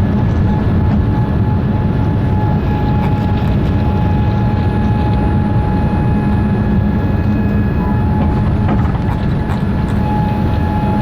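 Jet airliner heard from inside the cabin: a loud, steady rumble of engines and airflow with a faint steady whine over it.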